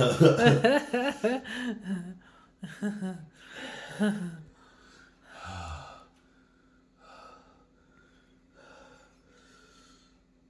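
A man gasping and groaning from the burn of raw bird's eye chillies: loud, wavering moans in the first two seconds, then heavy breaths about a second apart that grow fainter.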